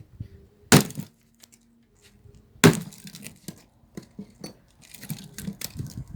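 Two sharp axe blows into firewood, about two seconds apart, each a loud crack. Lighter knocking and clattering of wood follows near the end.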